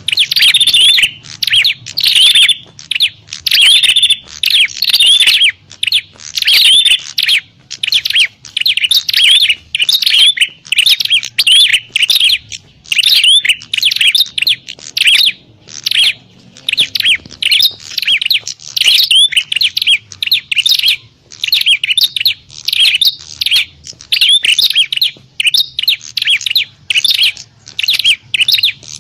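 Prinias (prenjak) calling: loud, rapid, excited chirping phrases, one after another with only short gaps. These are the agitated fighting calls played as a lure to draw in wild prinias.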